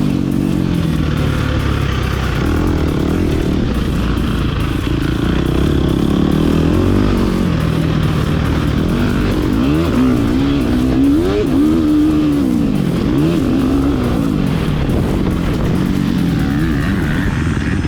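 Motocross dirt bike engine revving up and down over and over as it is ridden around the track, its pitch rising and falling with throttle and gear changes.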